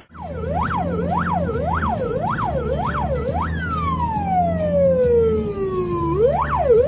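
Emergency vehicle siren sounding a fast yelp of quick rising and falling sweeps, nearly two a second. About halfway through it switches to one long falling wail, then the fast yelp starts again near the end. A steady low hum runs underneath.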